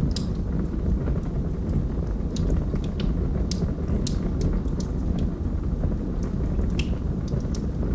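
Wood logs burning in a fireplace: a steady low rumble of flame with irregular sharp crackles and pops from the burning wood.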